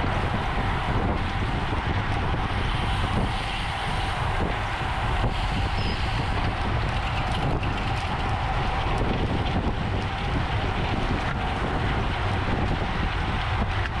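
Steady wind rushing over the microphone of a camera riding on a moving racing bicycle, with road noise underneath.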